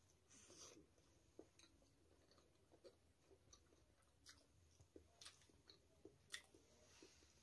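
Faint chewing and wet mouth smacks of people eating steamed vegetable momos, with scattered small clicks about one to two a second.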